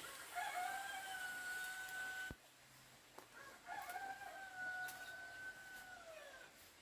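Rooster crowing twice, each crow a long drawn-out steady note; the second falls in pitch at the end.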